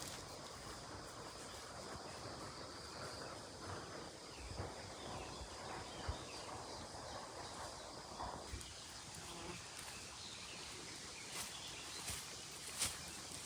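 Quiet rural outdoor ambience: a steady hiss with a faint, even high tone in the first half and a few scattered soft clicks and knocks.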